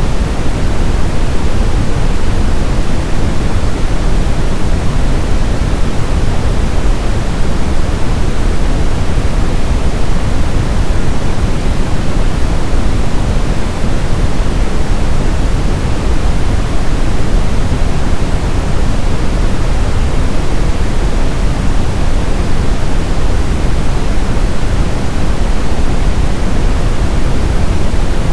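Brown noise: a steady, unbroken hiss heaviest in the low end, deep and rumbling, with no changes or events.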